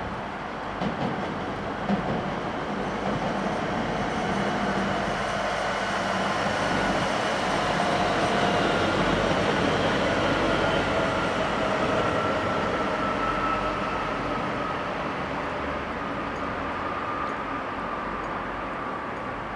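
TER regional passenger train running past on the rails, with a few wheel clicks early on and a faint motor whine that drops slightly in pitch. It is loudest about halfway through and fades as the train moves away.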